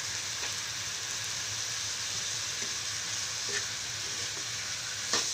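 Chicken, onion and grated carrot sizzling steadily in hot oil in a pan, with one sharp tap near the end.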